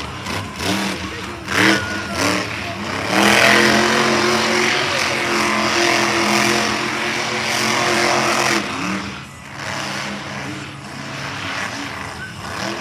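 Monster truck engine running hard at steady high revs for about five seconds, then dropping off. Two sharp bangs come before it.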